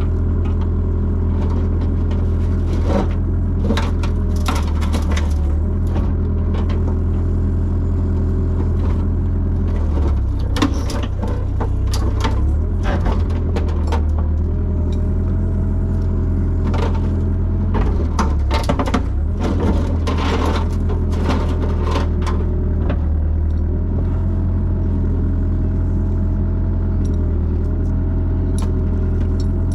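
Excavator engine running steadily under load with a hydraulic whine that rises and falls, while the crushed car body creaks, pops and cracks in many sharp snaps as the sheet metal is stretched and pulled back out.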